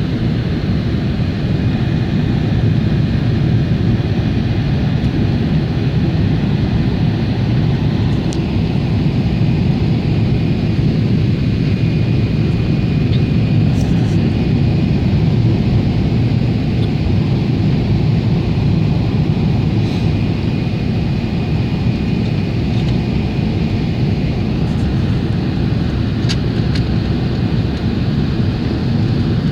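Boeing 777 airliner heard from inside the cabin: a steady, even rumble of engine and airflow noise, with a faint steady high whine and a few small clicks.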